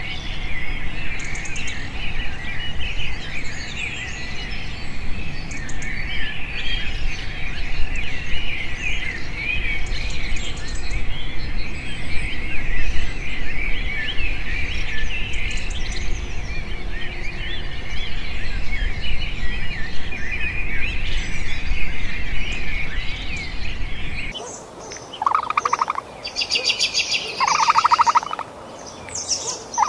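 Many birds chirping and singing together over a low outdoor rumble. About 24 seconds in, the sound cuts to a different recording of rapid pulsed trilling calls.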